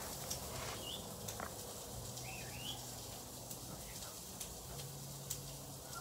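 Two short, faint bird chirps, one about a second in and another about two and a half seconds in, over quiet background noise with a few light clicks.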